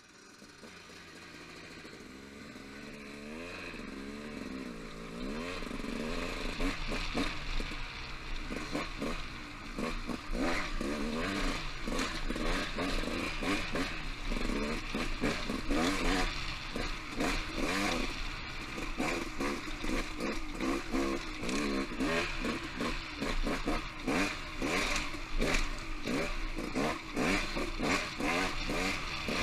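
Off-road motorcycle engine revving up and down as it rides singletrack, with frequent clattering knocks over rough ground. It grows louder over the first six seconds or so.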